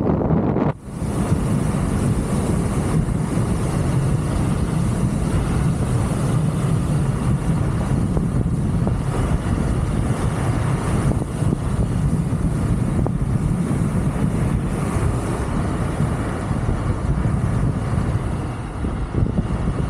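Wind rushing over the microphone and tyre noise from a Wolf King GT Pro electric scooter riding at speed, with a steady high whine. The sound dips briefly just under a second in, then carries on evenly.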